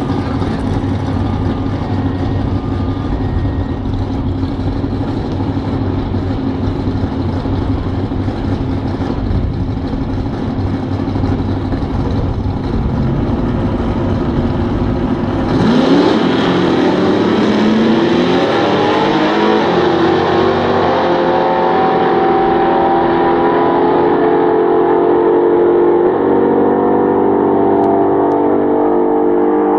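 Two drag-racing car engines running at the starting line for about fifteen seconds. Then both launch at full throttle, their engine pitch rising and dropping back through several gear changes as they pull away down the strip and the sound grows duller with distance.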